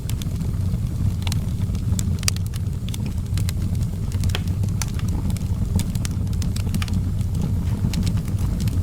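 Fire in an outdoor fireplace crackling: frequent sharp, irregular pops over a steady low rumble.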